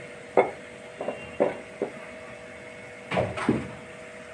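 Spatula knocking and scraping against a cooking pan as spices are stirred in oil: several sharp clacks, with a louder cluster about three seconds in. A steady electrical hum runs underneath.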